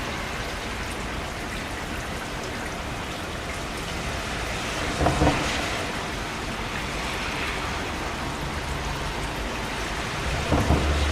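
Steady heavy rainfall, an even hiss. A brief louder burst comes about halfway through, and another near the end carries a low rumble.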